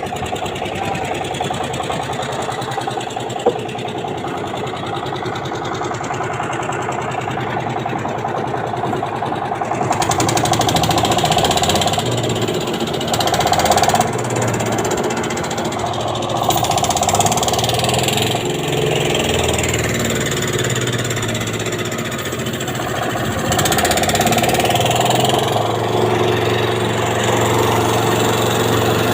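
An engine running steadily. It gets louder and rougher about a third of the way in, and its load rises and falls several times after that.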